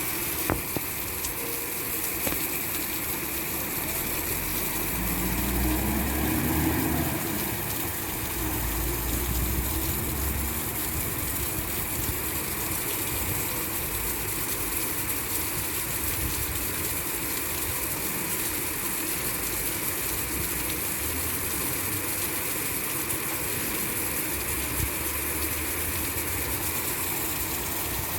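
Heavy rain falling steadily, a dense hiss, with vehicle engine and traffic rumble underneath. About five seconds in, an engine rises in pitch and grows a little louder for a couple of seconds.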